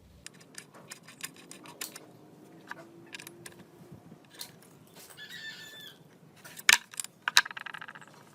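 Small metal engine parts and hand tools clinking, tapping and knocking against one another and the bench, with a few louder knocks about two-thirds through and a quick run of even clicks near the end.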